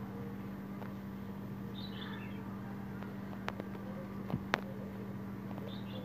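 A small bird chirps twice in short trills, about two seconds in and again near the end, over a steady low hum, with a few faint clicks in between.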